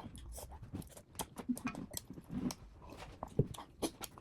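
Close-miked eating: chewing and mouth sounds, a dense run of irregular sharp clicks and crackles.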